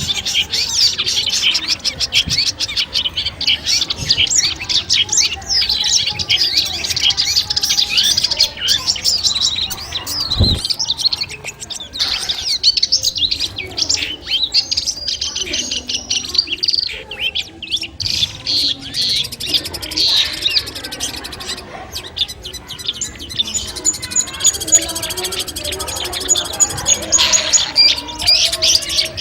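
Long-tailed shrike singing a fast, unbroken run of varied chattering and whistled phrases, with a thin high trill near the end. A single low thump about ten seconds in.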